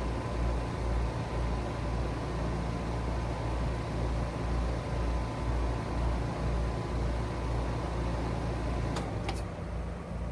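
Trane XR14 heat pump outdoor unit running in cooling mode: a steady hum from the compressor and condenser fan with a low rumble. About nine seconds in, a thin steady whine stops, with two sharp clicks.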